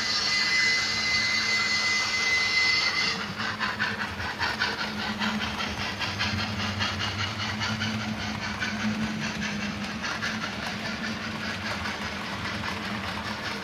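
Model steam locomotive's sound: a steam whistle held for about three seconds, then fast, even chuffing with hiss as the model train runs.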